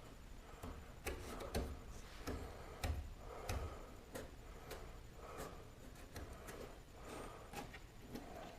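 Faint, irregular small clicks and a few soft knocks, more frequent in the first half.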